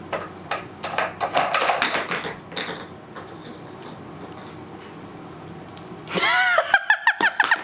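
Clattering knocks as a dog moves the pieces of a treat-puzzle game, busiest in the first few seconds, then a run of quick, high-pitched vocal sounds near the end.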